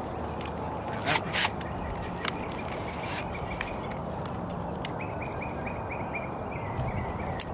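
Two sharp clicks about a second in. Then, twice, a bird calling in a quick run of short high notes.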